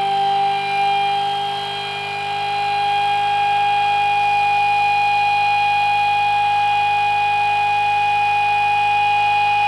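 Pulse motor running under full load on 24 volts, its four alternator coils shorted: a steady whine of several fixed tones. The level dips slightly for about a second near the start, then holds steady.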